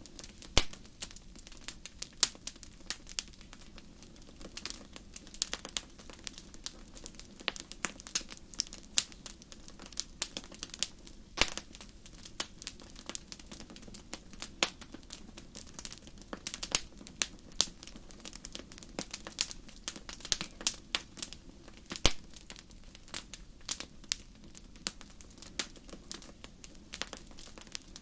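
Fireplace fire crackling: irregular sharp pops and snaps, several a second and some louder than the rest, over a soft steady low rush of the flames.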